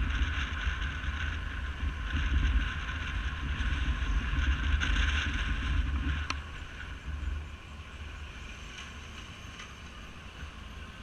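Wind rushing and buffeting over the microphone of a camera on a moving motorcycle, with engine and road noise under it. A single sharp click about six seconds in, after which the sound gets quieter.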